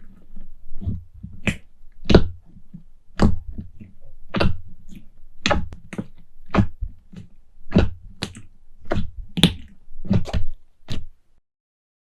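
Slime being worked, giving a series of sharp pops and clicks about once a second, stopping shortly before the end.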